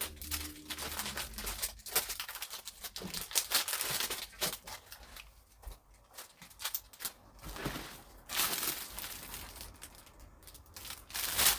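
Plastic packaging crinkling and rustling irregularly as packaged items are handled and unwrapped, with a few quieter pauses.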